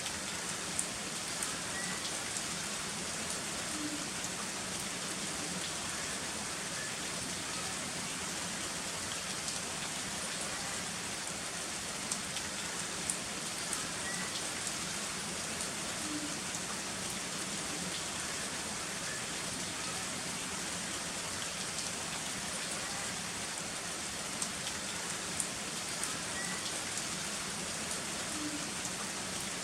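Heavy rain falling steadily, an even hiss with scattered sharp ticks of drops striking nearby.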